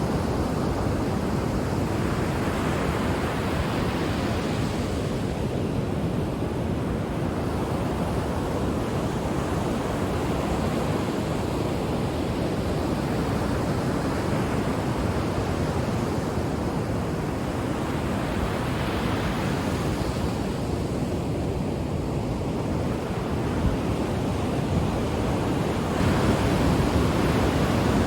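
Ocean waves breaking and washing on the shore: a steady rushing surf that swells and eases every several seconds, growing louder near the end.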